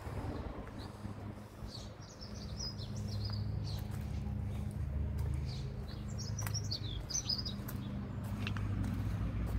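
Small songbirds chirping and twittering, many short calls, over a steady low hum.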